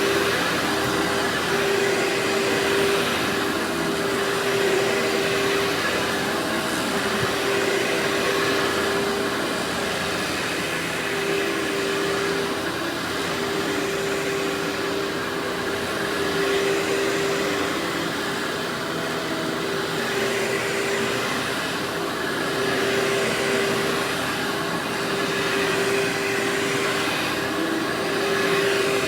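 Workhorse vacuum cleaner running steadily: a constant motor whine over the rush of air, swelling and easing slightly in loudness.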